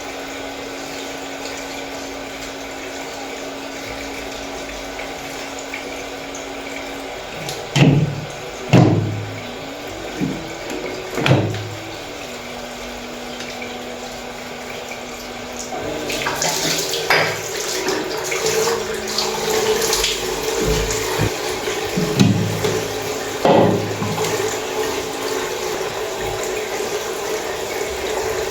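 Soft background music with long held notes, joined about halfway through by a tap running into a sink, with a few knocks along the way.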